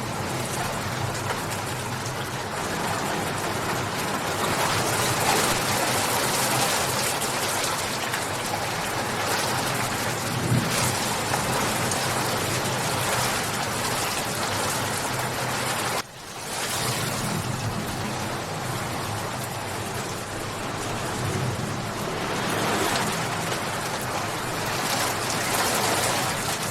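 Steady heavy rain falling, an even hiss of drops, with a brief sudden dip in level about two-thirds of the way through before it swells back.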